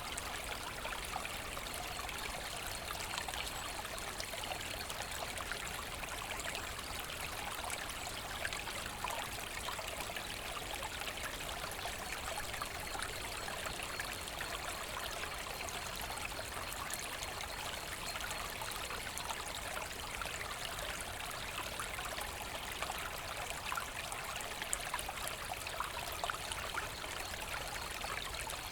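Small forest brook running steadily, water trickling and splashing over stones.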